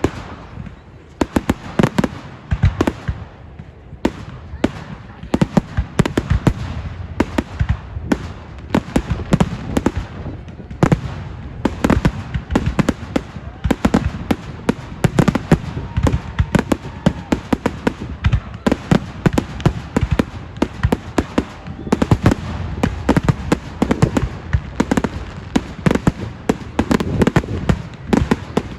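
Fireworks display: a rapid, unbroken barrage of bangs and crackles with a low rumble beneath.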